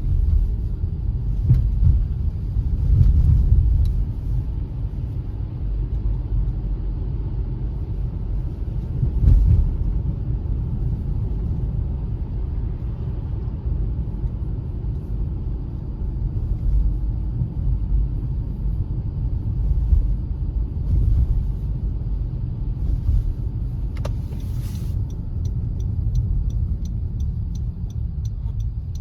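Car driving, a steady low rumble of engine and tyre noise with a few heavier bumps. Near the end a regular quick ticking starts.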